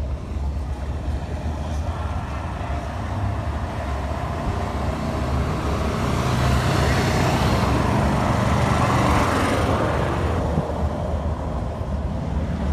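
Car engines running close by, a steady low rumble that swells louder for several seconds in the middle.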